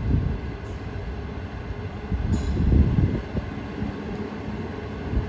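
CR200J push-pull train's coaches rolling slowly past on the rails, a steady low rumble that swells louder about two to three seconds in.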